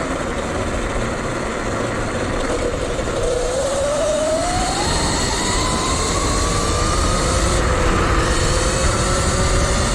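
Sur Ron Light Bee electric dirt bike's motor whining, its pitch rising from about three seconds in as the bike speeds up, then holding high, over a steady rushing noise.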